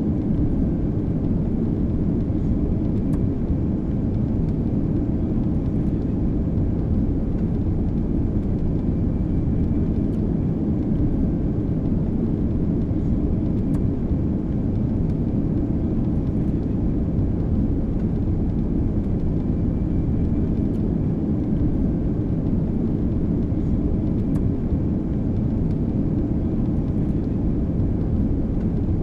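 Boeing 777 jet engines at takeoff power: a steady, deep rumble with a faint high whine above it.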